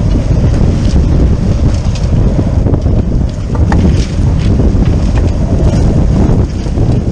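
Strong wind buffeting the microphone aboard a sailboat under way: a loud, steady low rumble with a few faint sharp ticks scattered through it.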